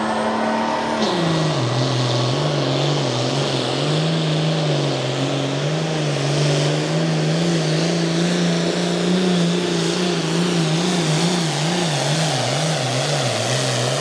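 Pro Farm diesel pulling tractor's engine running at full throttle under load while dragging the weight sled. Its pitch drops about a second in and then wavers up and down, with a thin high whine climbing over the first couple of seconds.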